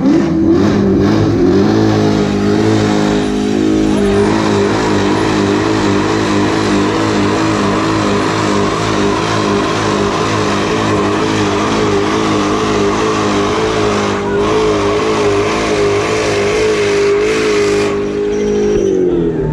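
Car engine running at steady revs: it climbs in pitch just as it begins, holds nearly constant with a slight wavering for most of the time, then winds down near the end.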